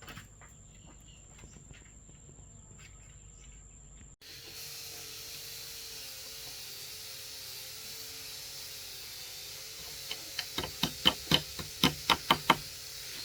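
Quiet outdoor background with a thin steady high tone, then an abrupt change to a steady high hiss with a wavering hum. Near the end comes a quick run of about a dozen sharp knocks, some five a second.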